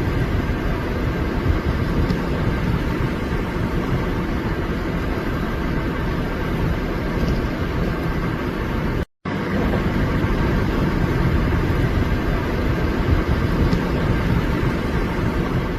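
Steady rumble of vehicle traffic. It drops out completely for a moment about nine seconds in, then resumes.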